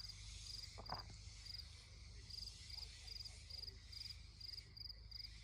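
Faint crickets chirping steadily, about two short chirps a second, over a low hum, with one soft knock about a second in.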